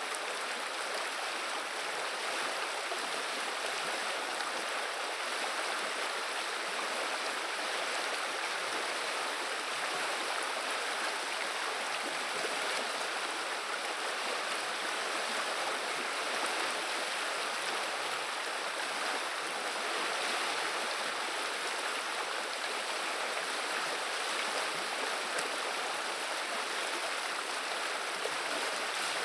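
Running water of the Viliya river: a steady, even rushing babble.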